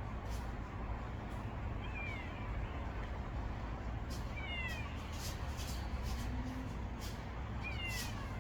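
Stray kitten mewing: three short, high calls, each falling in pitch, about two, four and a half and eight seconds in, over a steady low background hum and a few faint clicks.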